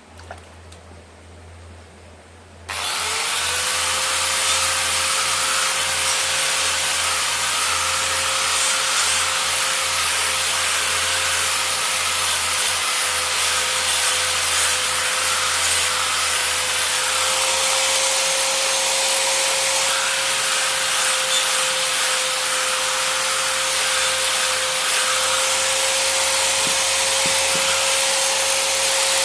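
Electric power tool starting about three seconds in: its motor spins up with a short rising whine, then runs steadily with a constant whine over a loud grinding hiss.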